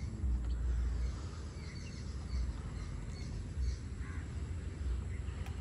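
A few faint, short bird calls over an outdoor background, with irregular low rumbling from wind on the microphone.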